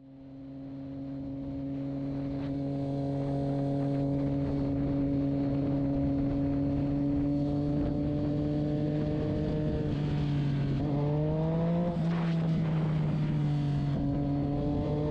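A vehicle engine droning at a steady pitch under road noise, fading in at the start. About ten seconds in its pitch rises briefly, then settles back.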